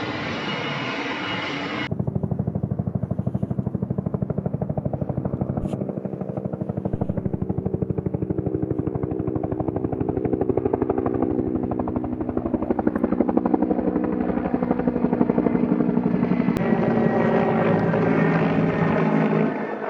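Helicopter's rotor chopping in a fast, even beat over the engine's steady hum, starting abruptly about two seconds in and getting louder and fuller near the end.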